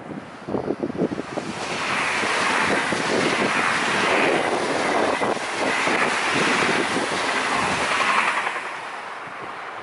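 Trenitalia high-speed electric train passing close by at speed: a rushing of wheels and air that builds about two seconds in, holds loud with slow swells, then fades near the end. Wind buffets the microphone at the start.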